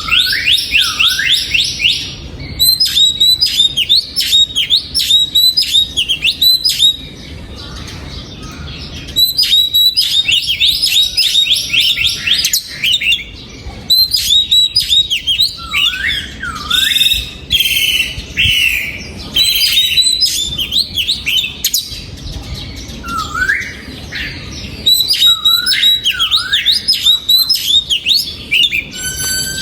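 Oriental magpie-robin singing: runs of quick, loud whistled notes that sweep up and down, in phrases of a few seconds with short pauses between them.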